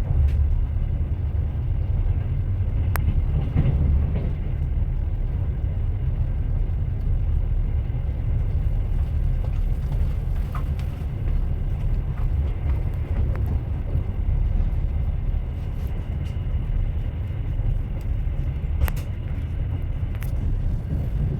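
Train wheels running on the rails: a steady low rumble, with a few sharp clicks about three seconds in and again near the end.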